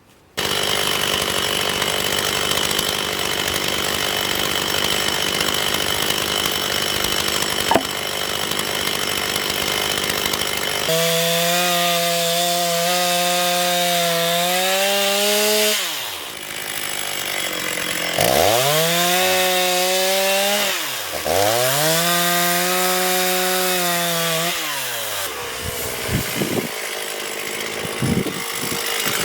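Chainsaw cutting firewood with a new chain. It starts with a steady cutting din, then after about eleven seconds the engine pitch repeatedly sags and climbs back as the saw drops to idle and is revved up into the next cut, with a few short blips near the end.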